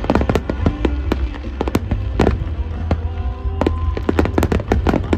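Aerial fireworks bursting in rapid succession, a dense string of bangs and crackles, with music playing over them.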